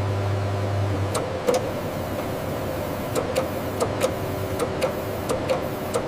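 Factory machinery running with a steady mechanical hum and irregular sharp clicks and ticks. A deeper hum drops out about a second in.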